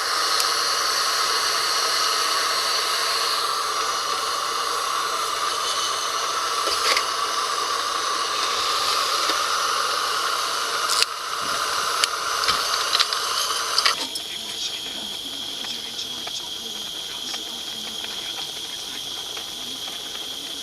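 Campfire burning: a steady hiss with scattered sharp crackles and pops. About two-thirds of the way through it changes abruptly to a quieter hiss with a thin steady high tone.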